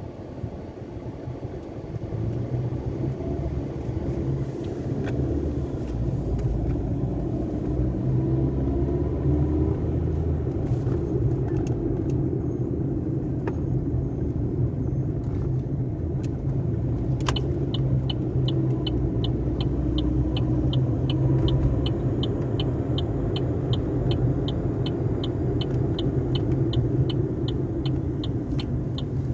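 Sonny's car wash tunnel machinery running: a steady low rumble of the wash equipment, with a regular ticking about three times a second that starts about halfway through.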